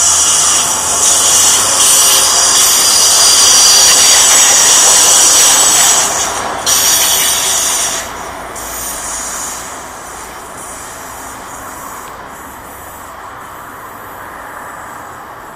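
Double-deck regional electric train running past on the tracks and pulling away, its wheels and running gear giving a loud hiss with steady high-pitched squealing tones. The sound drops off sharply between about six and eight seconds in, then fades as the train recedes.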